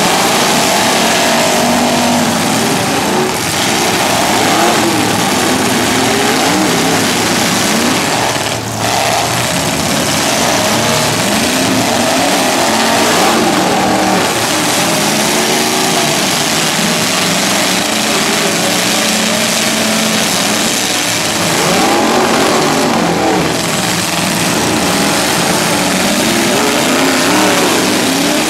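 Several full-size demolition derby cars' engines revving hard together through open exhaust pipes sticking up from the hoods, pitch rising and falling as the drivers accelerate, back up and ram.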